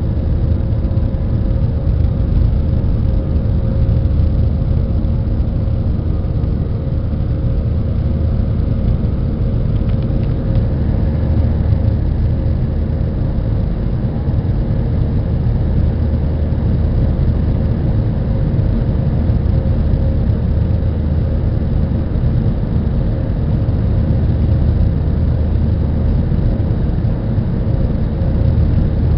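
Airbus A320 jet engines running steadily, heard from inside the passenger cabin as an even drone with a deep rumble and a faint steady hum. It shows no spool-up or change in pitch.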